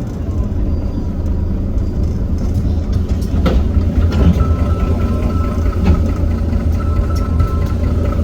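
Heuliez GX327 bus's Iveco Cursor 8 six-cylinder diesel heard from on board, running steadily with a deep rumble. A thin steady whine joins about four seconds in, and there are a couple of short clicks.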